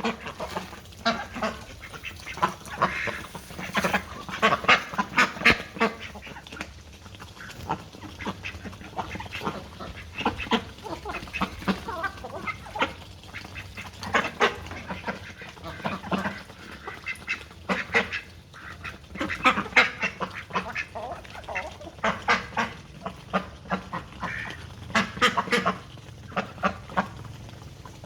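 A flock of domestic ducks quacking, many short calls coming in clusters one after another.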